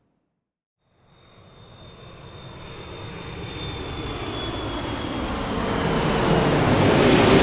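Jet aircraft engines growing steadily louder as the plane approaches, with a high whine that slowly falls in pitch, starting about a second in after a moment of silence.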